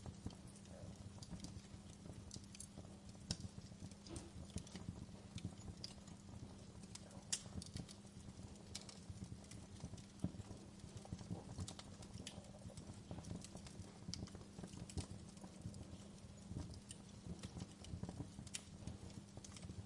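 Wood fire burning in a fireplace: a steady low rumble of flame with irregular sharp crackles and pops from the burning wood.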